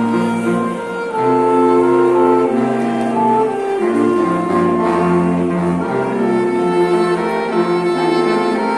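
A string quintet playing a slow passage of sustained, bowed notes, with a low cello or bass line under violin melody; the notes change about once a second.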